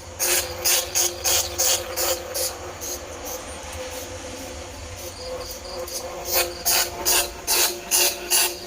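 Bandicoot rat squeaking: rapid runs of short, shrill squeaks at about three a second, easing to softer chatter in the middle and picking up again about six seconds in. These are calls used to lure bandicoot and field rats.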